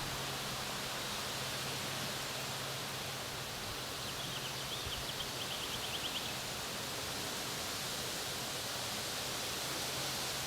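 A small bird sings a short, rapid trill of high notes about four seconds in, lasting about two seconds, over a steady hiss.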